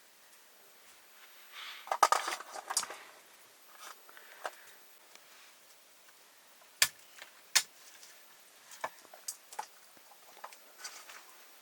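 Metal cooking utensils and pots clinking and knocking while being handled: a clatter about two seconds in, two sharp knocks around the middle, then lighter scattered clicks.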